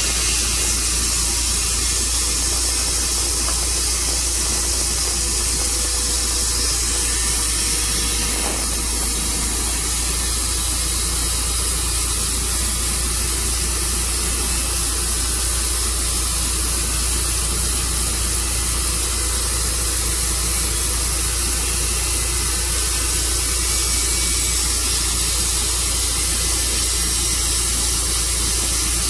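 Tru Cut sawmill running and cutting through a walnut log: a loud, steady hiss from the blade in the wood over a constant low engine hum.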